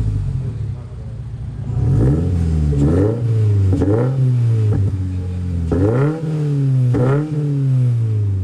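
A car engine idling and being revved in five quick blips, each rising sharply and dropping back to idle. The first three come about a second apart, and after a short pause the last two follow about a second apart.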